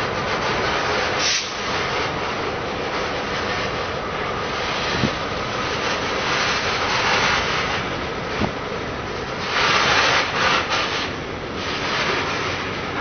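Freight cars rolling past on the rails: a steady rumble and rattle of wheels on track, with a few sharp knocks and a louder stretch about ten seconds in.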